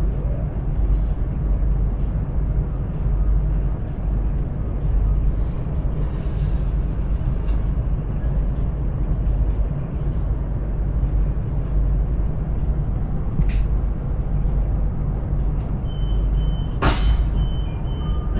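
Steady low rumble of a Chinese CRH high-speed train running, heard inside the carriage. A brief click about two-thirds of the way through and a sharper knock near the end.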